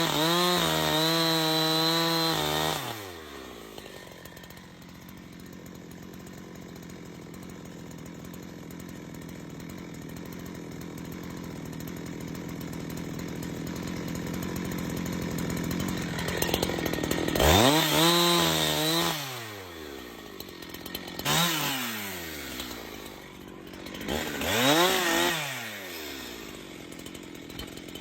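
Two-stroke chainsaw engine at full throttle that drops to a steady idle about three seconds in. Near the end it is revved up again, once for a second or two and then in two short blips that rise and fall back to idle.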